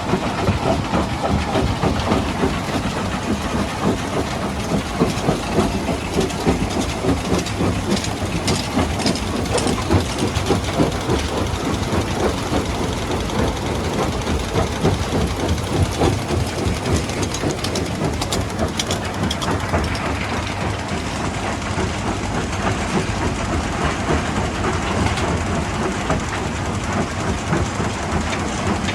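Stone crushing machinery running: a dense, continuous clatter and rattle of rock over a low machine rumble, with a few sharper high clicks about eight to ten seconds in and again near nineteen seconds.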